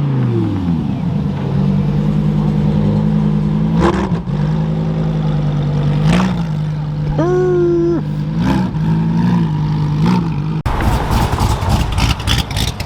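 Ford Mustang Shelby GT350R's V8 rolling slowly, its revs falling at the start, then running low and steady with a few light throttle blips. A short steady-pitched tone sounds about midway. Near the end the sound cuts abruptly to rougher, noisier engine sound.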